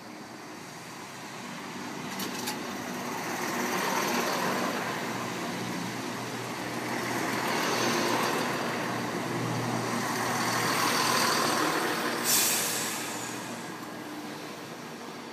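Train moving through the station, growing louder with steady low running tones and rolling noise, then easing off; a sharp burst of air hiss from the brakes about twelve seconds in.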